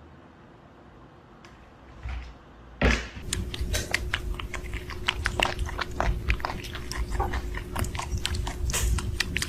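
A pet chewing and crunching on food or something hard, with many irregular crunches. It starts suddenly about three seconds in after a quiet stretch, over a faint steady hum.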